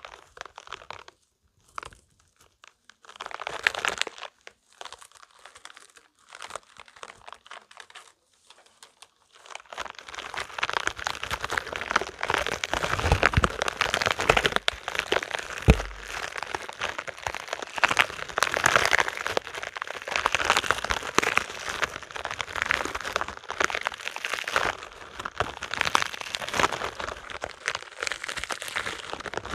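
Spiky rubber balls handled close to the microphone, squeezed and rubbed so their rubber spikes make crinkly, crackling sounds. It starts as short separate bursts with pauses, and from about ten seconds in becomes a dense, continuous crackle.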